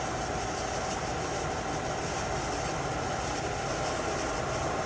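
Trak DPM CNC bed mill with its table traversing along the Y axis under CNC control: a steady machine hum with a faint constant whine.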